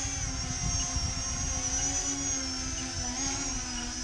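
E-flite Convergence VTOL's electric motors and propellers buzzing steadily in a hover: a propeller hum with a high motor whine over it. Strong wind rumbles on the microphone.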